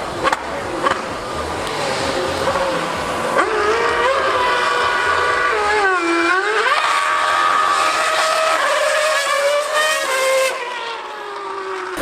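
2013 Formula One car's 2.4-litre V8 engine screaming at high revs on the track: its pitch climbs through the gears, drops sharply about halfway through as it shifts down for a corner, then climbs again before fading away near the end.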